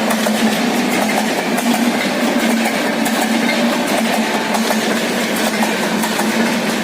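Indian Railways train running on the track: steady rumble of the wheels with rapid clicks over rail joints and a steady low hum.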